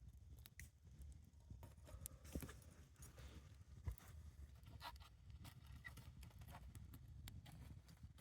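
Near silence: faint scattered clicks and ticks over a low steady rumble.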